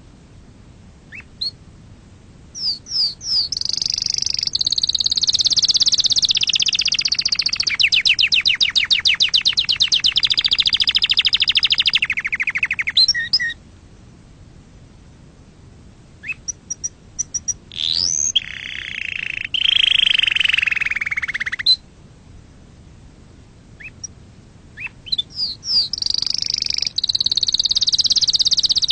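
Domestic canary singing in three long bouts of song: quick rising whistles leading into sustained warbling, with a fast rattling trill in the middle of the first bout and short pauses between bouts.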